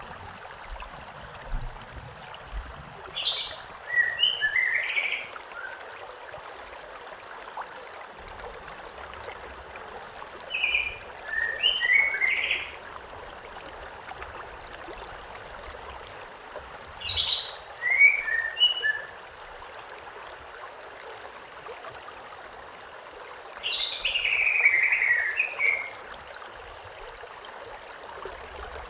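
A river or stream flowing steadily, with a songbird singing the same short phrase four times, several seconds apart. Each phrase is a quick run of notes falling in pitch.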